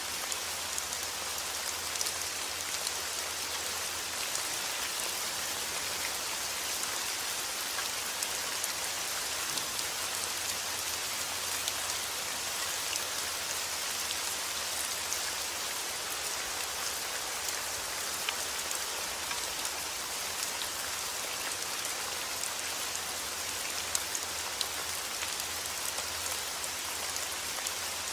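Steady heavy rain falling outdoors, a dense even hiss dotted with the sharp ticks of individual drops striking surfaces.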